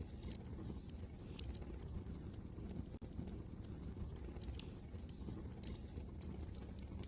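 Wood fire crackling, with irregular sharp pops and snaps over a steady low rumble of wind.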